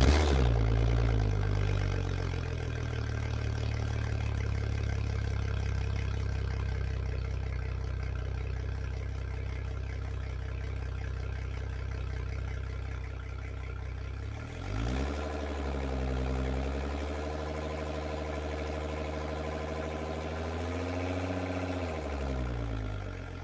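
A motor running steadily. It starts abruptly, its pitch dips and rises several times in the second half, and it cuts off near the end.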